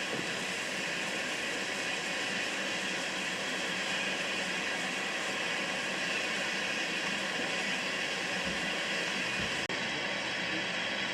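Steam locomotive letting off a steady, unbroken hiss of steam.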